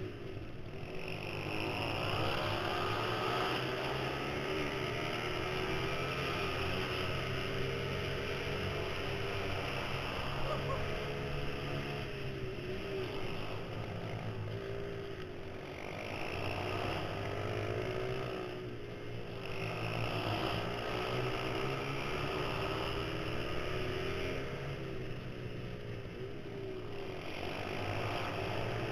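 Mini supermoto pit bike engine at racing speed, revving up along the straights and falling off into the corners, several times over.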